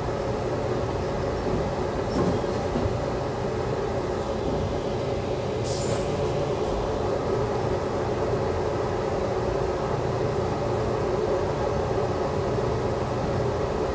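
Passenger train running at speed, heard from inside the coach: a steady rumble of wheels on the rails and car noise. A brief high-pitched hiss comes about six seconds in.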